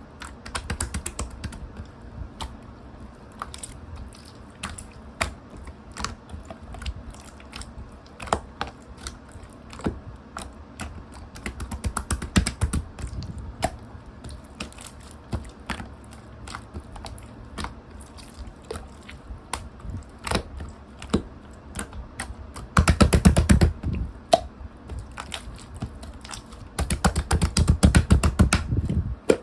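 Clear, colourless slime being squished and poked by hand, making irregular sticky clicks and pops. Twice, about two-thirds of the way through and again near the end, it breaks into a louder stretch of rapid crackling pops.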